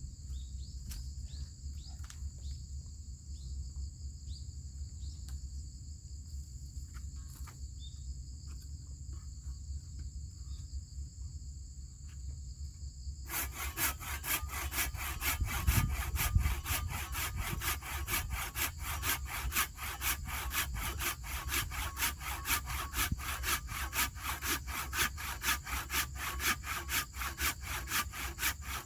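Insects trill steadily at first. About halfway through, a hand saw starts cutting into a fallen tree's wood with quick, even back-and-forth strokes that keep going.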